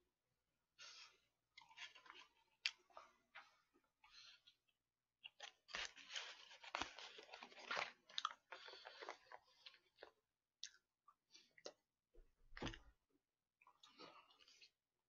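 A person chewing and crunching food close to the microphone, in irregular bursts, busiest from about five to ten seconds in. A few sharp clicks and a dull knock near the end.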